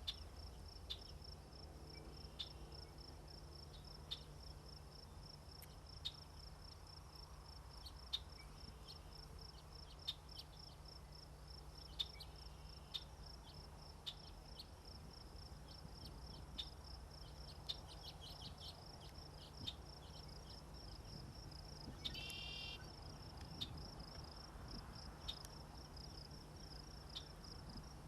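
An insect trills steadily in a fast, even pulse. Sharp ticks come roughly every two seconds, and a brief higher call sounds about three-quarters of the way through.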